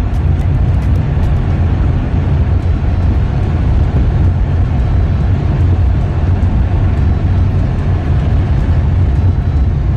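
Steady low rumble of a car driving, tyre and road noise heard from inside the cabin on a road still partly covered with snow.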